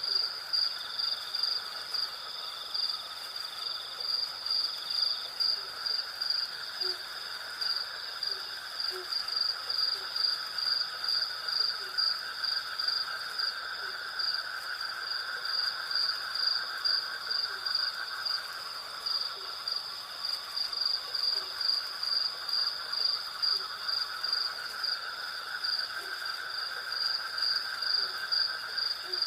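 Night chorus of crickets and cicadas: a steady high trill pulsing about twice a second over a continuous lower insect buzz, with faint short low calls recurring every second or two.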